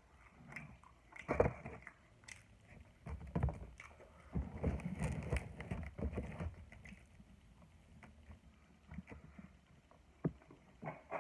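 Close-miked eating and handling noises at a meal: irregular rustles, knocks and a sloshing, gurgling stretch in the middle, with a few sharp clicks near the end.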